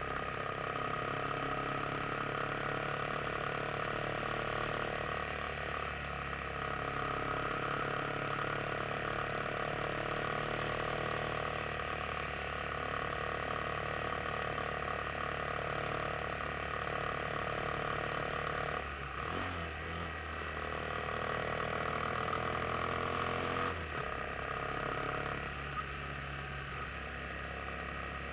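Yamaha XT250 single-cylinder four-stroke motorcycle engine running steadily under way. About two-thirds through, the engine note breaks, then rises in pitch for a few seconds before changing again.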